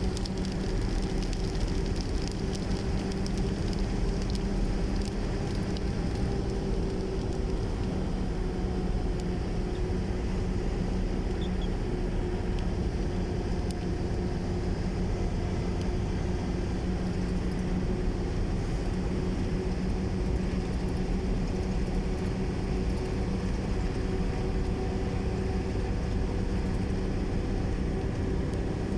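Steady engine drone with a low rumble and a constant hum that does not change.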